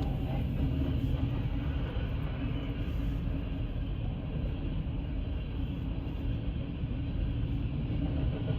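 Freight train of grain hopper cars rumbling steadily past at a road crossing, with the steady noise of the cars on the rails.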